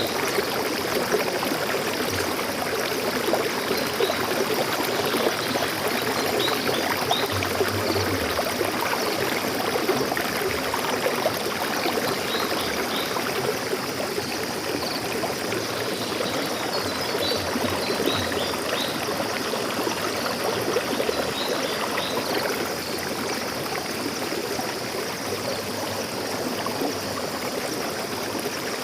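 Stream water flowing steadily, with a few faint high bird chirps now and then.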